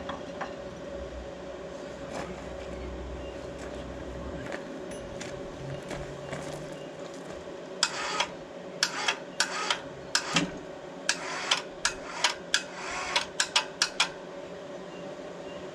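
Propane burner firing a casting furnace, a steady rushing hum with a constant tone through it. Over the second half a run of sharp clicks and knocks sounds on top, a dozen or so in about six seconds.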